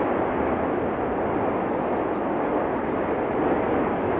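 The erupting Cumbre Vieja volcano on La Palma: a steady, unbroken noise that holds the same level throughout, with no beat or rhythm in it.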